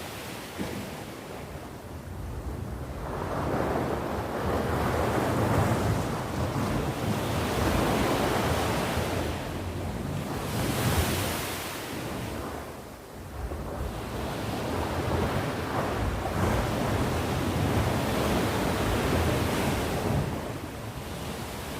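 Sea waves washing on the shore, the surf swelling and ebbing in slow surges, with a brief hissing rush about halfway through and a lull shortly after.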